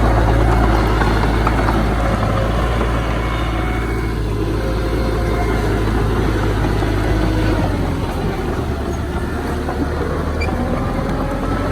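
Diesel engine of heavy earthmoving machinery running steadily under work, its pitch rising slowly near the end.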